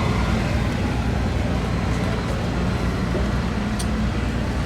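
Steady low rumble of vehicle engines, with one faint tick near the end.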